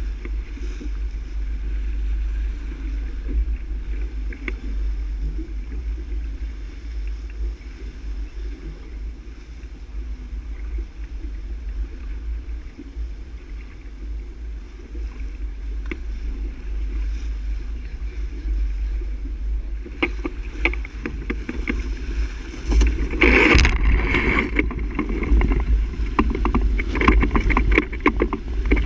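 Sailboat under way: steady wind buffeting the microphone over the rush of water along the hull. About two-thirds of the way through, splashing and spray pick up, with the loudest splash shortly after.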